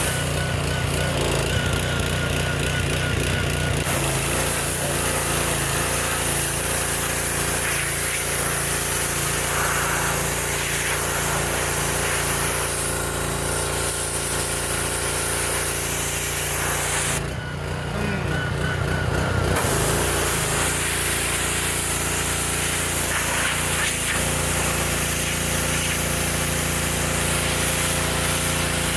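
Pressure washer running steadily with the hiss of its water spray; the spray cuts out about 17 seconds in and starts again a couple of seconds later.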